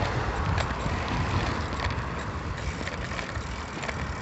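Wind buffeting a phone's microphone while riding a bicycle, a steady low rumble with road and tyre noise, and a few light clicks and rattles from the bike scattered through it.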